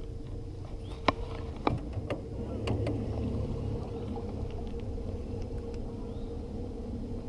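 Steady low hum from a small boat, broken by a few sharp clicks and knocks of fishing tackle being handled between about one and three seconds in.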